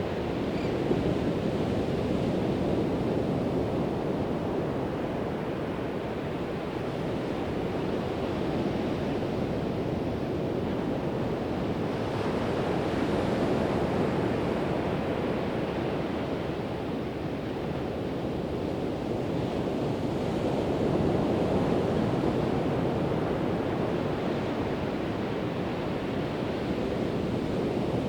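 Pacific Ocean surf breaking on a sandy beach: a continuous wash of waves that swells and eases every several seconds, with some wind rumble on the microphone.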